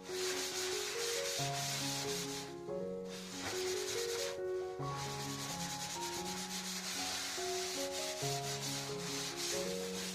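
Hard, rapid scrubbing strokes on a surface during kitchen cleaning, broken by two short pauses, over soft background music with a slow melody.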